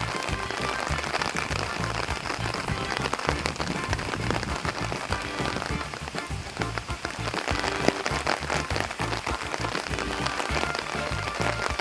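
Heavy rain falling and striking hard surfaces, a dense, steady hiss full of small sharp drop impacts.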